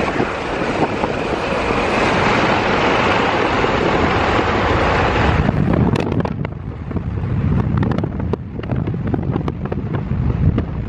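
Car driving with wind and road noise rushing over the microphone. About halfway through the rushing drops away abruptly, leaving a lower rumble with scattered clicks.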